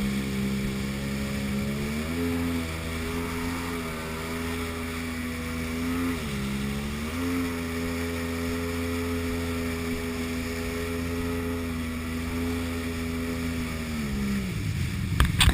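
Jet ski engine running at steady speed. Its pitch rises a little about two seconds in, dips briefly and recovers around six to seven seconds, then falls as the engine slows near the end. A few sharp knocks come right at the end.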